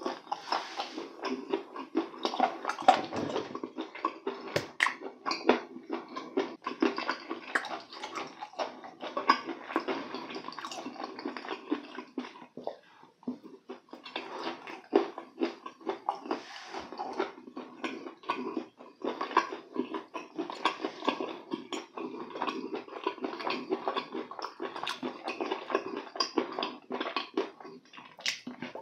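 Close-miked wet, sticky chewing of spicy sauce-coated chicken, with irregular smacking and squelching clicks throughout.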